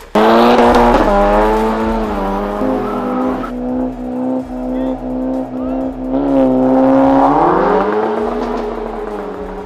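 Car engine held at high revs, starting abruptly and climbing in pitch again about seven seconds in before falling away, with music underneath.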